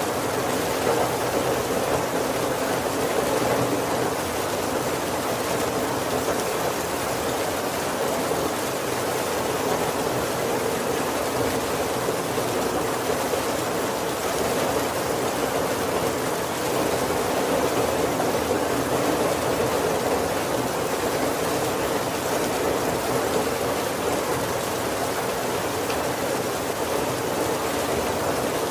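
Heavy rain falling steadily on the roof and windows of a wooden carriage, an even hiss with no thunder.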